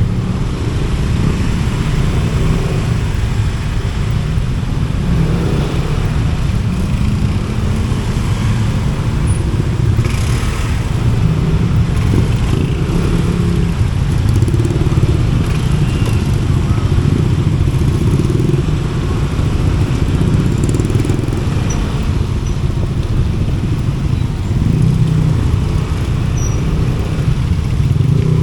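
Steady rumble of congested road traffic, with motorcycle and car engines running close by.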